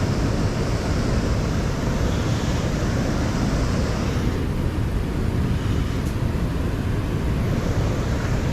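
Wind buffeting the microphone: a steady low rumbling rush, with the flow of the river beneath it.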